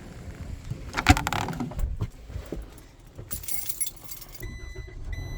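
Keys jangling and clicking in two bursts. Near the end, a vehicle's electronic warning chime starts beeping in a repeating on-off pattern, the kind a vehicle gives when a door is open with the key in.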